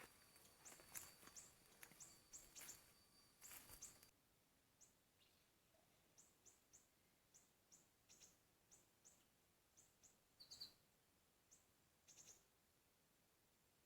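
Faint, short, high bird chirps repeating every half second or so, with a steady high whine and hiss under them for the first four seconds.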